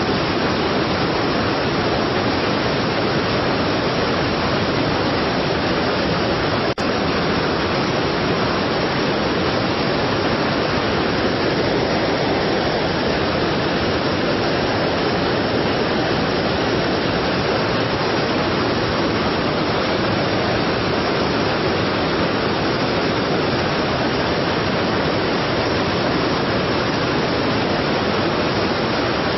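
Strong waterfall: a steady, dense rush of falling water, with a single brief click about seven seconds in.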